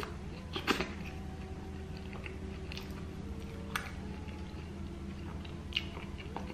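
A person chewing a mouthful of food, with sharp mouth clicks, the loudest just under a second in and others near 4 and 6 seconds, over a steady low hum.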